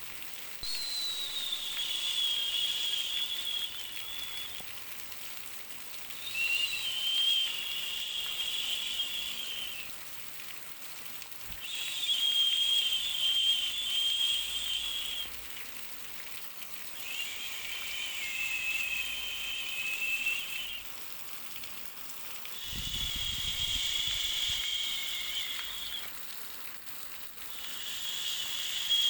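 Baby white-noise track: a high, whistling hiss that swells and fades about six times, each swell lasting three to four seconds, over a constant faint hiss.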